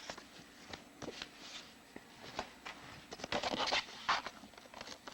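Scattered light scratches and clicks of small objects being handled close to the microphone, with a soft breathy rush about three and a half seconds in.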